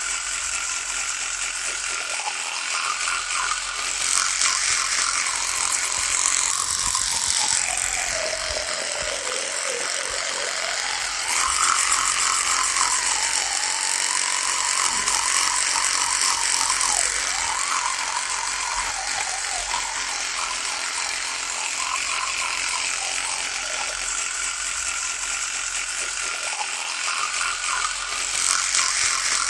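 Electric toothbrush running with a continuous buzz. Its pitch sinks to about half about a third of the way in, then climbs back and wavers, with a few louder stretches.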